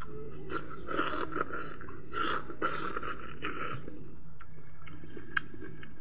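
A person chewing a mouthful of food close to the microphone: a run of wet smacks and munches in the first four seconds, then a few small clicks of the lips. A steady low hum sits underneath.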